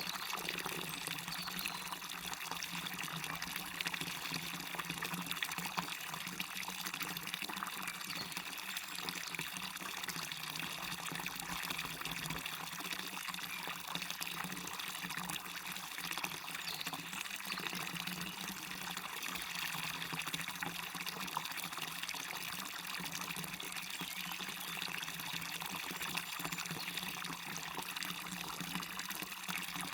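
Waterfall and river water running and splashing steadily, a bright even rush with little deep rumble.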